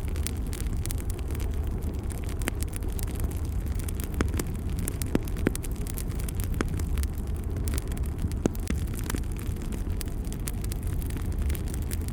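Wood fire burning in a fireplace: a steady low rumble of flames with frequent sharp crackles and pops, a few of them louder near the middle.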